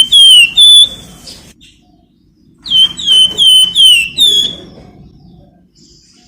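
A songbird known in Indonesian birdkeeping as the flamboyan calling in loud, shrill whistled notes, each a short slur dropping in pitch: three or four at once, then a second run of five about two and a half seconds in.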